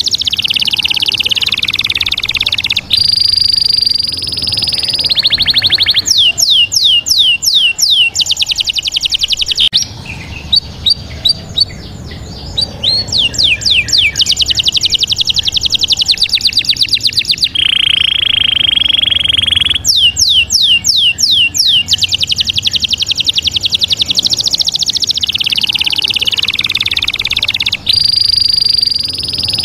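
Rapid high chirps, quick falling sweeps and trills in loud stretches of a few seconds, switching abruptly from one pattern to the next, with one steady whistle-like tone of about two seconds past the middle.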